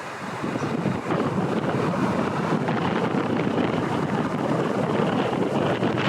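Strong storm wind buffeting the microphone: a dense, steady rush of noise that grows louder about a second in.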